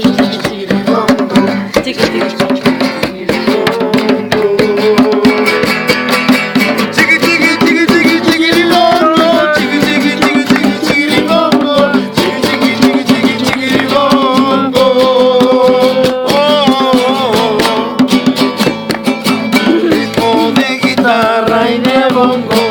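Strummed acoustic guitar and bongo drums playing a fast, steady Latin rhythm, with a wavering melody line over them.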